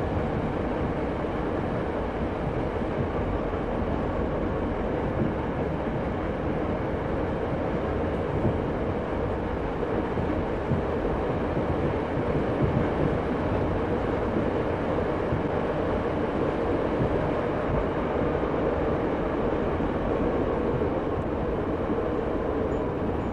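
Diesel train at a station platform, running with a steady, continuous rumble of engine and rail noise.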